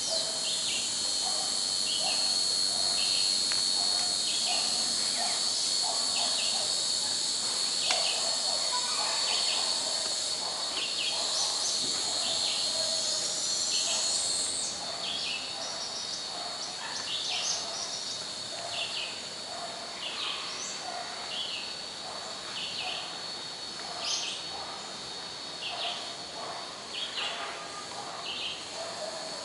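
Insects droning steadily on one high tone while birds call, one short call repeating about once a second, with a few rising whistles in the first half.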